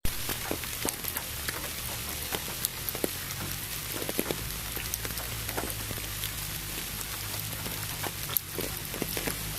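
Steady rain, many separate drops pattering over an even hiss, with a low steady hum underneath. It starts abruptly after a moment of silence.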